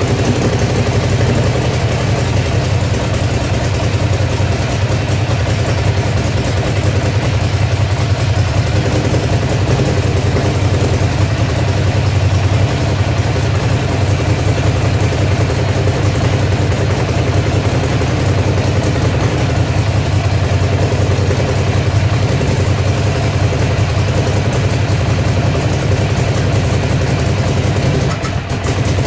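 Ducati Monster's air-cooled L-twin engine idling steadily after a start, with a brief dip near the end. The bike has a misfire problem.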